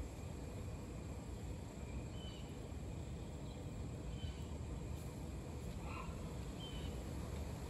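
A handful of faint, short bird chirps, spaced a second or more apart, over a steady low outdoor rumble.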